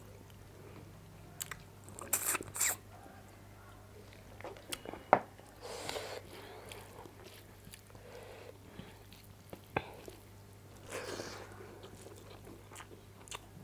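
Close-up eating sounds: a person chewing a mouthful of food, with scattered sharp clicks and a few short crunchy, wet bursts.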